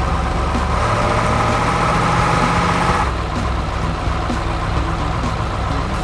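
Heavy vehicle engine running steadily, with a higher whine over it for the first three seconds that then stops.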